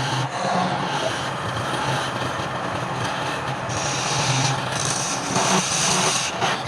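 Wood lathe running with a tool working the spinning wood: a steady motor hum under a rough, continuous scraping hiss.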